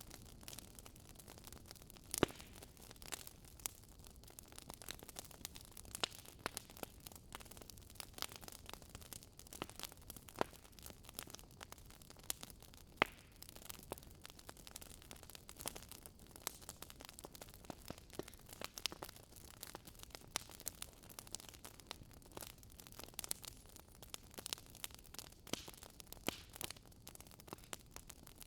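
Firewood burning in a fireplace, crackling with irregular sharp pops and snaps over a soft hiss; two pops, about two seconds in and about thirteen seconds in, stand out as the loudest.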